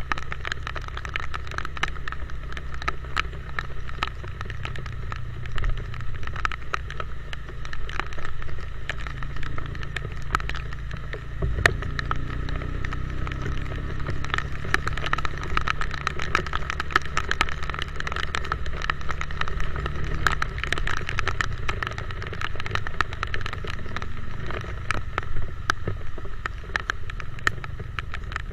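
Motorcycle riding in the rain: a steady low engine hum under wind and rain noise on the microphone, with many small sharp ticks of raindrops striking it.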